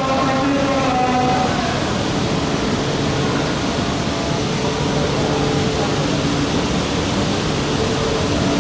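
A tune from the platform speakers fades out in the first second and a half. After it comes the steady noise of a packed platform: crowd hubbub over the low hum of an E4 Series Max Shinkansen as it starts to pull out.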